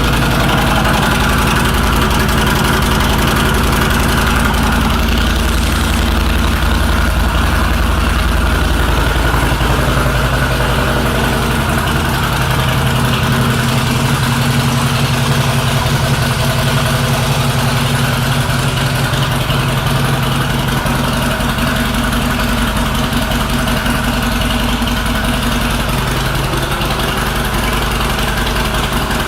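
A 2017 Harley-Davidson Softail Slim's air-cooled V-twin engine idling through Vance & Hines aftermarket exhaust pipes, a steady low-pitched idle that eases slightly about halfway through.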